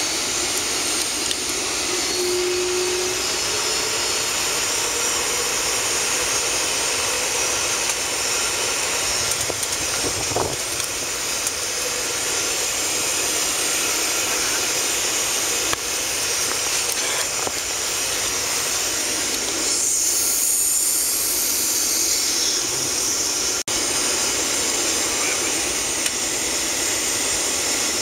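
Steady cabin noise of a Boeing 757-300 taxiing after landing, heard from inside the first-class cabin: jet engines at low power under an even hiss, which swells briefly about twenty seconds in.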